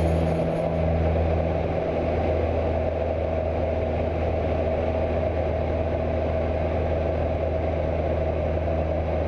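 Cessna 172's piston engine and propeller running at a steady pitch, an even hum with no change in speed.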